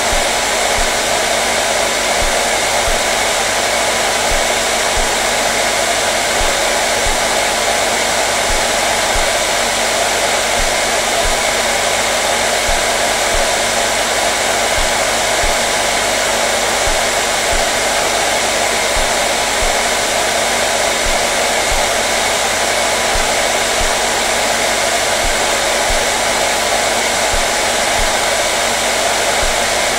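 Electric hair dryer running continuously at a constant speed: a steady, unchanging rush of blown air with a faint motor hum.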